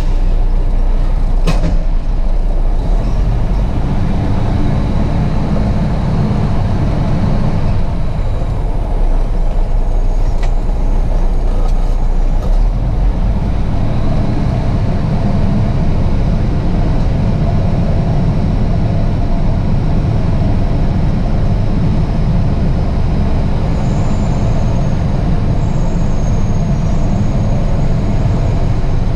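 Truck's diesel engine running with a steady low rumble, heard from inside the cab, with a sharp click about a second and a half in.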